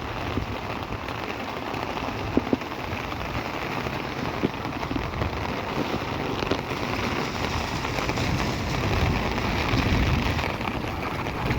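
Steady rain falling, with a few sharper drops or splashes; a low rumble swells briefly about nine seconds in.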